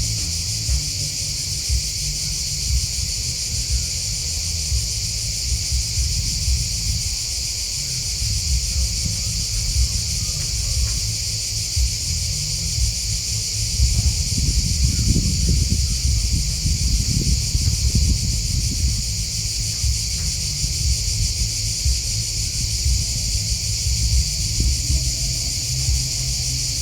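A steady, high-pitched chorus of grasshoppers and crickets chirping without a break. Under it runs a low rumble that swells for a few seconds about halfway through.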